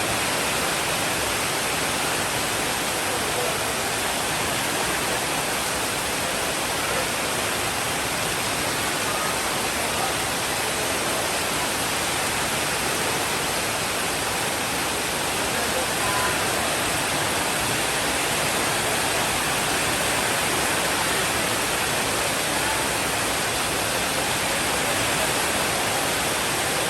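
Steady rain, an even hiss that holds constant throughout.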